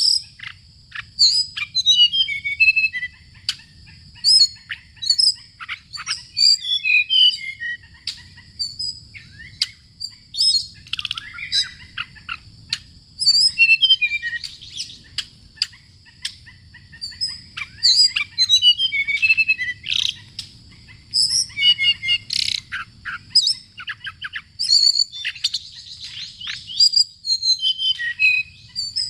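Small birds chirping and twittering in quick strings of short, high notes, over a steady high-pitched tone.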